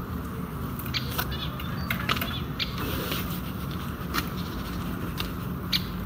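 Outdoor ambience: small birds chirping now and then, with scattered short sharp clicks over a steady low rumble.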